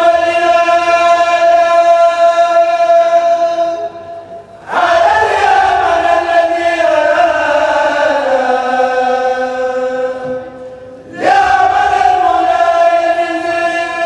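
A kourel chanting a Mouride religious poem without instruments, in long held notes. The chant comes in three phrases with short breaths between them, about four and ten seconds in. The middle phrase slides down in pitch.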